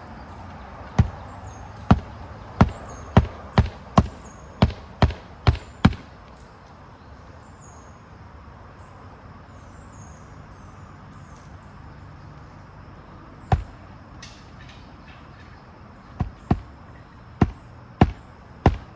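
Nails being driven by hand into an asphalt shingle with a magnetic roofing hatchet: a quick run of about ten hammer blows, a pause, a single blow, then another run of blows near the end.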